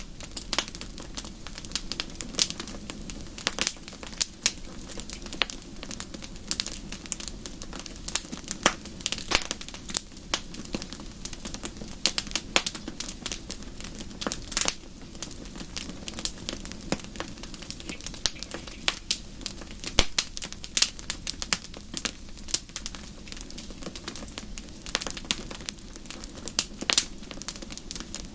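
Wood fire in a fireplace crackling, with frequent irregular sharp pops and snaps over a steady low rush of the flames.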